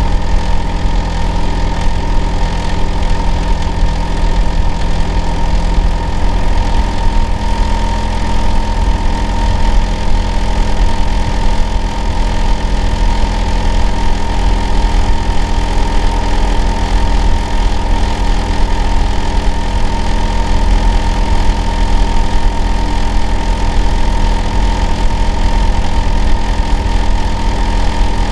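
Hitachi air-conditioner outdoor unit running: a steady, loud low drone with several steady tones above it, one of which drops out about six seconds in. It is the kind of noise tagged as abnormal and noisy.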